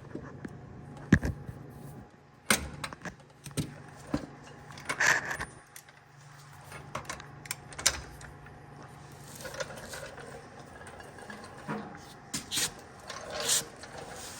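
Scattered metallic clinks and clanks of hand tools and parts being handled during shop work on a bus suspension, over a faint low steady hum that stops near the end.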